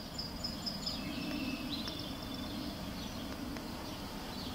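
Birds chirping and calling, with short high trills and falling notes, over steady outdoor background noise and a low hum.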